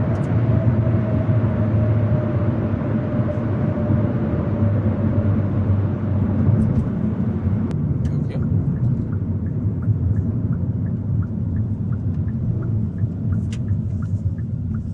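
Hyundai Avante N's turbocharged four-cylinder and road noise heard from inside the cabin: a steady low rumble, with the engine note sinking slowly over the first seven seconds as the car eases off. From about halfway through, light evenly spaced ticks, like a turn signal, run alongside.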